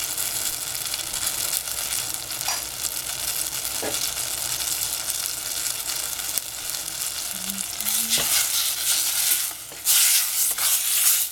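Tomato wedges sizzling as they fry in a stainless steel saucepan. Near the end a wooden spatula stirs them, and the sizzling gets louder.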